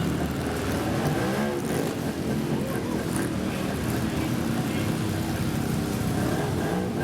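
Motorcycle engines running steadily, with one engine revving up and back down about a second and a half in.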